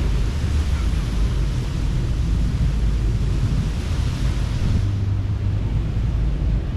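Ocean surf washing onto a sandy beach, a steady hiss of water over a heavy low rumble of wind buffeting the microphone. The hiss of the wash dies down about five seconds in.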